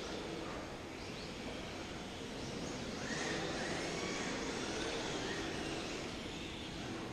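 Electric 1/10-scale RC formula car (Xray X1) driving on a track, its motor whining and gliding up and down in pitch as it speeds up, slows and passes. The whine gets louder from about three seconds in.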